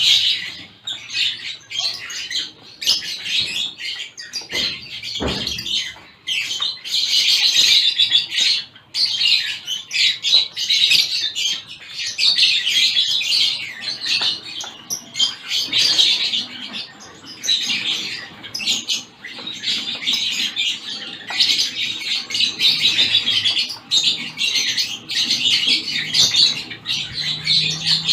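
A mixed flock of small caged finches, zebra finches among them, chirping constantly in overlapping high, rapid calls.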